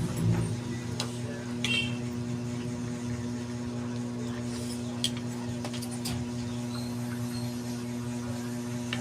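A steady low electrical hum runs under light eating sounds, with a few soft clicks from utensils and a brief low thump just after the start.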